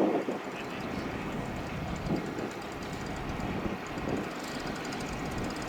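Steady rumble of jet aircraft engines, with the level wavering slightly.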